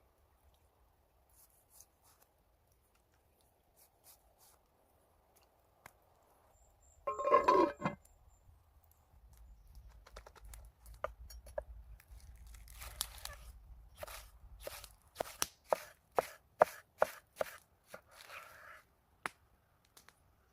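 Food being cut with a knife: a loud tearing sound lasting about a second, then a run of sharp, irregular knife strikes on a cutting board, about two a second near the end.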